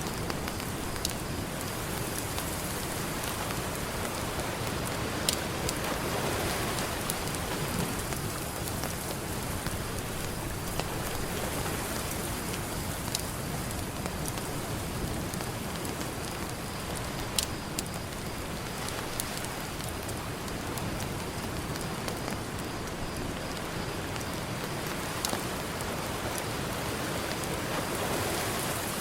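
Campfire crackling with scattered sharp pops, over a steady wash of ocean surf that swells up about six seconds in and again near the end.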